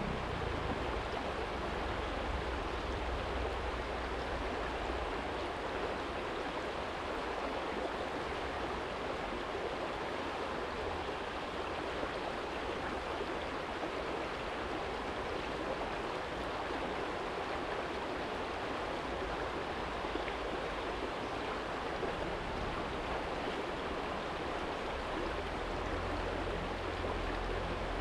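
Small stream flowing steadily over a stony bed, a constant rushing of water. A low rumble rises under it at the start and again near the end.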